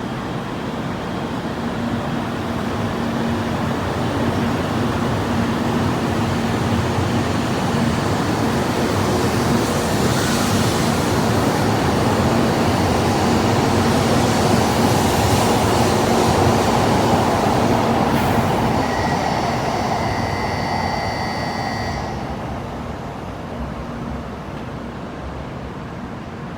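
Kyushu Shinkansen 800-series train pulling out of a station, its wheel and traction-motor running noise building as it gathers speed past. The noise is loudest a little past halfway, with a brief high whine about three quarters through, then fades as the train draws away.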